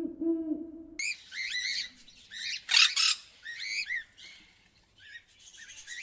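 Green parrot calling: repeated high, bending chirps with a couple of harsh screeches among them. This follows a short low hoot-like tone in the first second.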